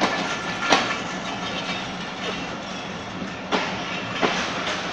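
Passenger coaches of a Bangladesh Railway intercity train rolling past with a steady wheel-on-rail rumble. A few sharp clacks come through as the wheels cross rail joints: one about a second in and two more near the end.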